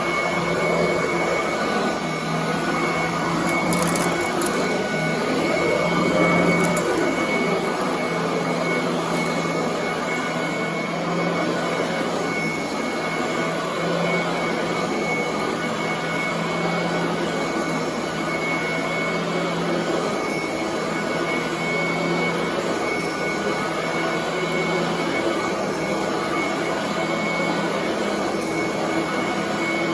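Commercial upright vacuum cleaner running steadily over carpet: a continuous motor hum with a high whine over the rush of air and brush.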